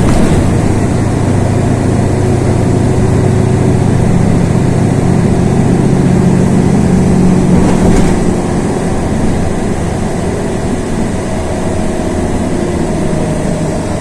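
Inside a LiAZ 6213.22 articulated city bus on the move: a steady low engine drone that swells for a few seconds, then eases off about eight seconds in, with a short click as it drops.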